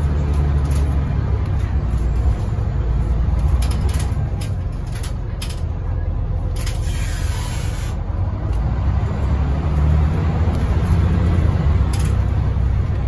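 Scania OmniLink I articulated bus running in service, a steady deep engine rumble heard from aboard. A short hiss of air about halfway through.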